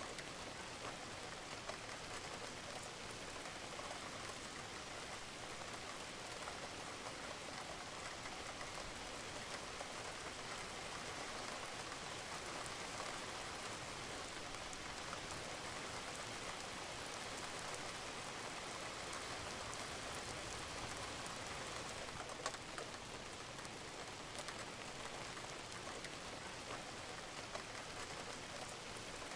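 Steady rain falling on a roof, with a fine scatter of drips; one sharper drip stands out about three-quarters of the way in.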